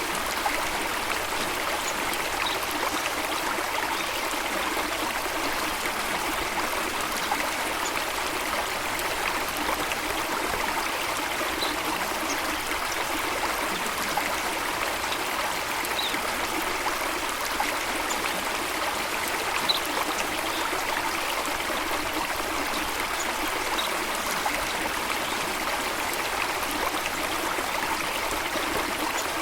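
Steady running water of a stream or small waterfall, an even trickling rush. A few faint, short, high chirps come now and then.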